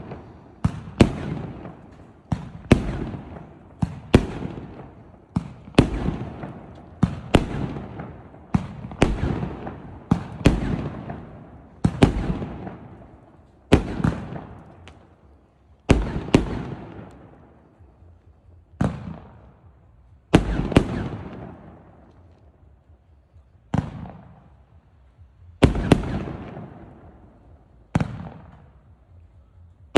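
A multi-shot consumer fireworks cake firing: sharp bangs about one a second, each followed by a fading crackle. The shots thin out to about one every two seconds in the second half.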